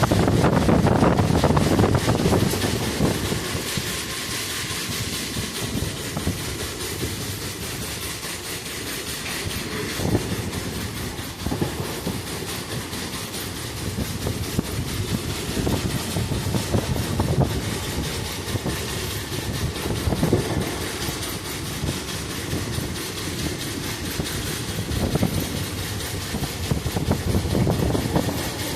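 Passenger train of ICF coaches running along the track: a steady rumble with the wheels clicking over rail joints now and then, louder for the first few seconds.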